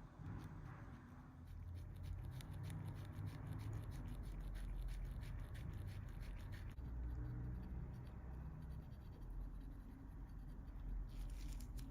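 Light scratching and rapid small clicks of hand work, densest in the middle and again near the end, over a low steady hum.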